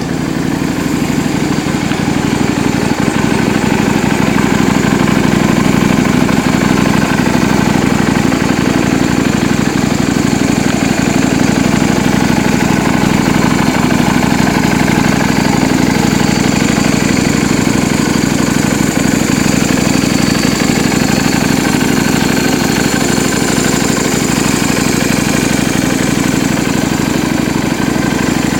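Yamaha Drag Star 250's V-twin engine idling steadily through a custom aftermarket muffler.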